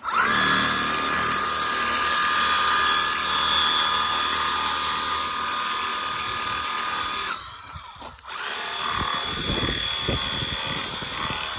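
Stihl compact battery-powered pressure washer running with a steady whine as it sprays. It cuts out about seven seconds in, is off for about a second, then starts again and runs on.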